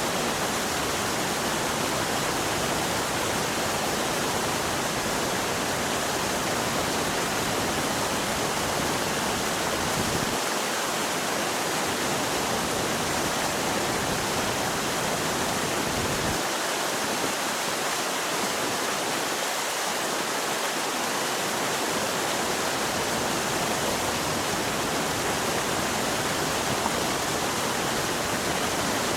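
Mountain stream rushing steadily. The deep part of the rush thins out for a stretch in the middle.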